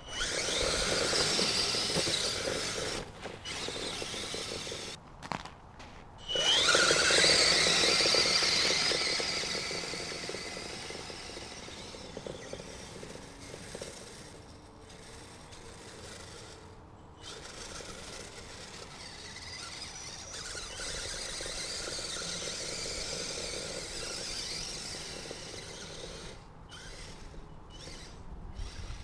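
Whining electric motor and gear drive of a Kyosho Blizzard RC tracked snowcat driving up a hill, throttled on hard at the start and again about six seconds in, the loudest surge. It cuts out briefly several times between bursts, and for most of the time after the surge it runs on more quietly.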